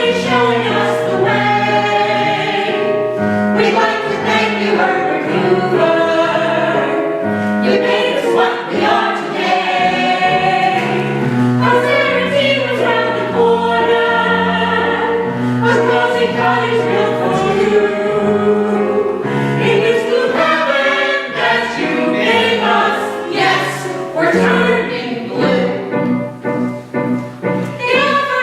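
A chorus of voices singing a musical-theatre number together, over instrumental accompaniment with sustained low notes.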